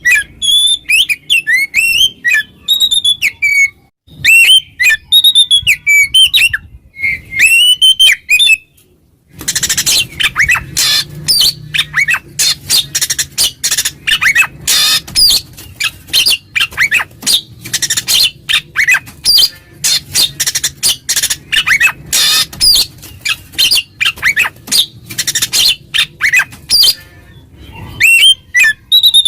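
Oriental magpie-robin (kacer) singing loudly in the ngeplong style, a song that calls out a rival. It opens with separate phrases of curving whistled notes, breaks about nine seconds in into a long, dense run of rapid chattering notes, and returns to whistled phrases near the end.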